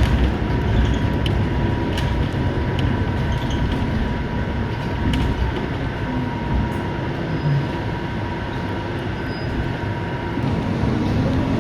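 Cabin noise of a Scania K230UB bus on the move: a steady engine and road rumble with a thin steady whine and light rattles. Near the end the engine note climbs as the bus picks up speed.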